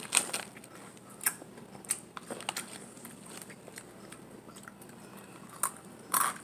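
A person biting and chewing crunchy chips: a few short, crisp crunches scattered across the seconds, the loudest one just before the end.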